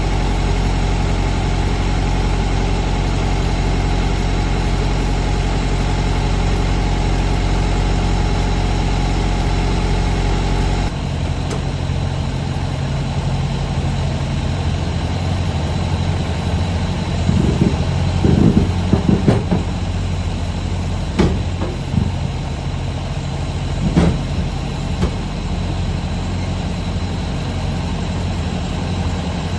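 Semi truck's diesel engine running steadily. About a third of the way in the sound changes abruptly to a lower, rumblier drone, and a few short knocks and rattles come later.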